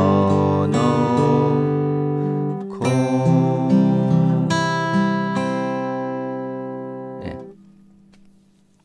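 Acoustic guitar played slowly fingerstyle: a short melody phrase picked on the upper strings, with a single bass note on the fourth string under the melody notes and the notes left to ring. About seven seconds in, the strings are damped and the guitar goes quiet.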